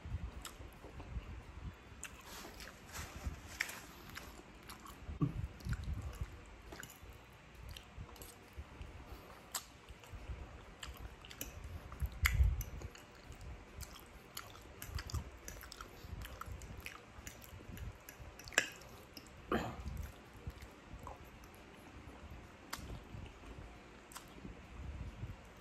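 Mouth sounds of a person eating Filipino sweet spaghetti: drawing noodles off a fork into the mouth and chewing, with many small wet clicks and soft low thuds scattered throughout.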